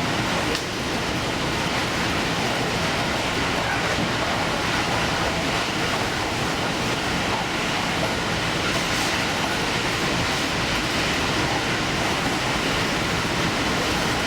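Furano Lavender Express limited express train running steadily along the line, a continuous rumble of wheels on rail and running noise heard from inside the leading car.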